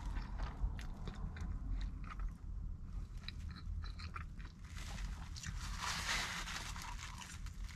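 Close chewing of a pizza slice with small wet clicks and smacks, over a steady low hum. About five seconds in, a louder stretch of crunching and paper rustling as the napkin-wrapped slice is bitten again.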